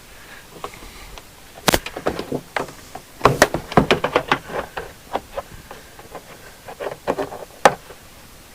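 Interior cab trim panel being pushed and knocked into place: irregular knocks and clunks, one sharp knock about two seconds in, a quick flurry of them a little later, and another sharp one near the end.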